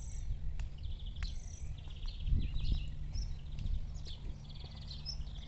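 Several birds chirping and trilling: short high calls and rapid buzzy trills, over a steady low rumble.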